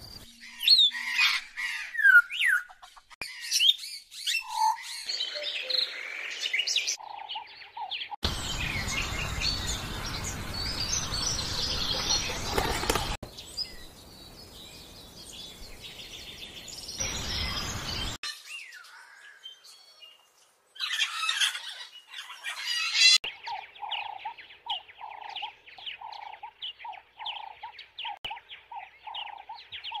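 Birds calling in a run of short spliced recordings: varied high chirps and whistled calls, one stretch over a loud hissing background, and near the end a short call repeated about twice a second.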